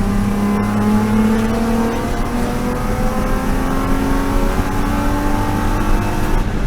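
BMW E36 M3 race car's straight-six engine accelerating, its pitch climbing steadily, with an upshift about two seconds in and another near the end.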